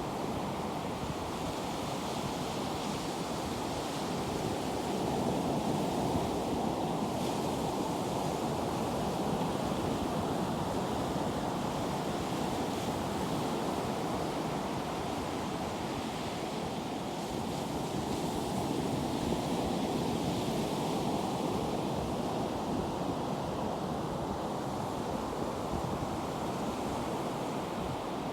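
Ocean surf washing onto a beach in slow, gentle swells, with some wind noise on the microphone.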